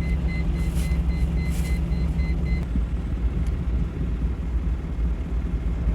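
Vehicle engine running with a steady low rumble. A faint, rapid high-pitched beeping sounds over it for the first couple of seconds, then stops.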